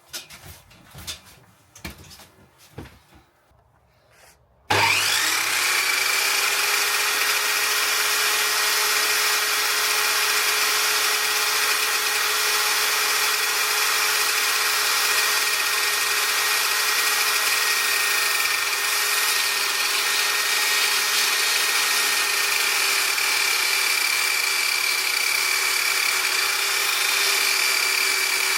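A few light knocks and handling sounds, then about five seconds in an electric workshop machine switches on. It spins up briefly and runs steadily at a constant pitch without load.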